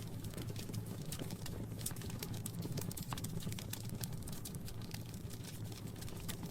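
Fire crackling in a fireplace: irregular sharp pops and snaps over a low steady rumble.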